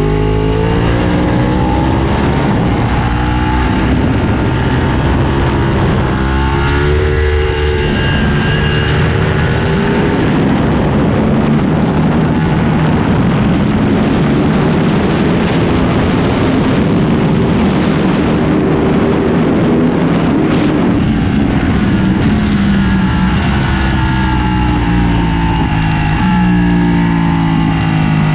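Ducati 1299 Panigale's Superquadro V-twin at racing speed, revs climbing in repeated pulls through upshifts in the first several seconds. A long stretch of dense rushing noise at speed follows, then the revs step down and climb again near the end.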